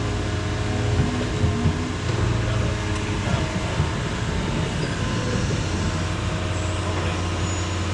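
Diesel engine of heavy equipment running steadily, with a few short knocks between one and two seconds in.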